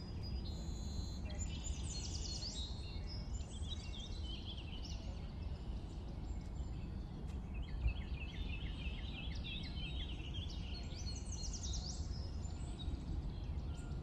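Small birds singing in phrases of quick chirps and whistled trills, busiest in the first few seconds and again through the second half, over a steady low rumble of wind on the microphone.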